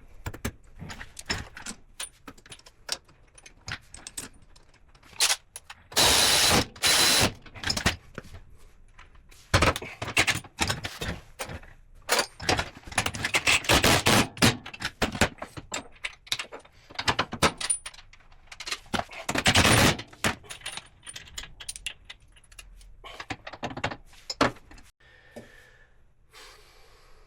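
Wrenches and metal suspension parts clinking, scraping and rattling while a UTV's rear suspension and hub are bolted back together, with several louder stretches of rasping tool noise about a second long.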